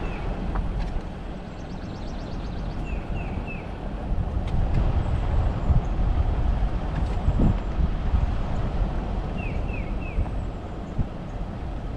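Car rolling slowly, with a steady low road and engine rumble. Twice, a bird gives three quick high chirps.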